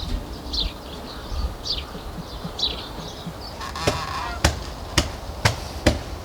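Short, falling, honk-like bird calls repeating about once a second, then a run of five sharp knocks about two a second in the second half.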